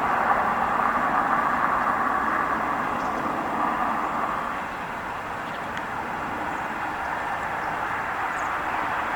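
Steady road traffic noise, a continuous rush that eases a little about halfway through and builds again near the end.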